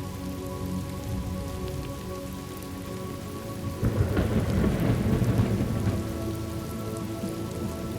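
Thunderstorm ambience: steady rain falling, with a rumble of thunder that swells about four seconds in and fades over the next two seconds. A soft bed of held tones sits underneath.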